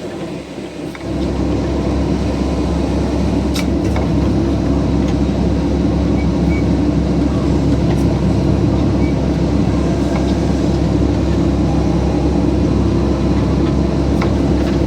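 CAT excavator's diesel engine running steadily under hydraulic load, stepping up in level about a second in and holding there until it eases off at the very end.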